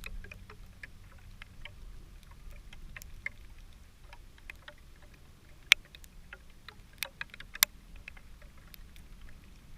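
Small wood campfire crackling: irregular small snaps, with three sharper, louder pops in the second half.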